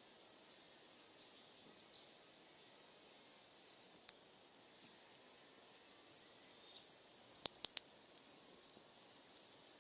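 Wood fire burning with a soft steady hiss and occasional sharp crackles and pops, a quick run of three or four pops coming about seven and a half seconds in.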